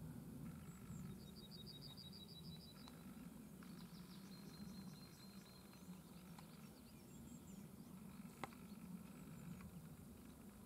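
Near-silent field ambience: a low steady background hum, with a small songbird's rapid trill of high repeated notes twice in the first half, and a faint click late on.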